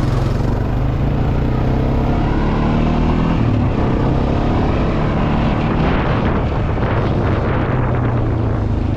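Engine of a small vehicle running steadily as it is ridden, its pitch wavering a little.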